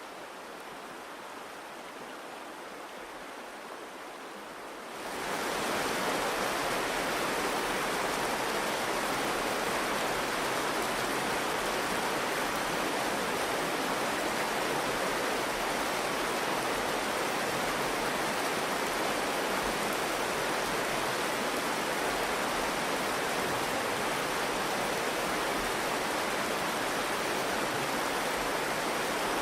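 The Virgin River flowing, a steady rush of water that grows louder about five seconds in.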